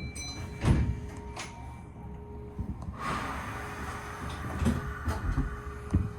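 Inside a Kintetsu train under way: a steady low rumble with a faint hum, a loud knock about a second in and a few more knocks later, and a hiss that starts about halfway through.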